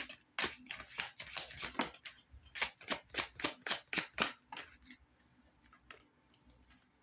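Tarot cards being shuffled by hand: a quick run of card slaps, about four or five a second, stopping about four and a half seconds in.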